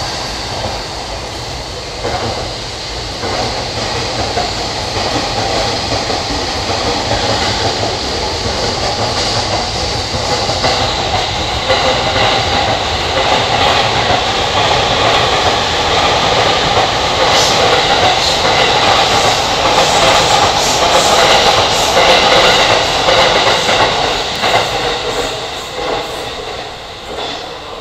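A long Shonan-striped JR commuter train running through the station without stopping. Steady wheel-on-rail rumble with clickety-clack over the rail joints grows louder to a peak about three-quarters of the way through, then fades as the last cars pass.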